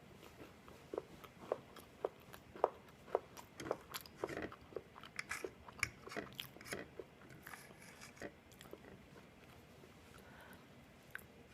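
Close-up chewing of a crisp, slightly burnt waffle. A quick, uneven run of crunchy bites through the first half or so, then quieter chewing.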